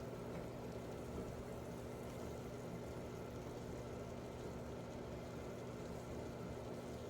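A steady low hum with an even hiss of food cooking in a skillet.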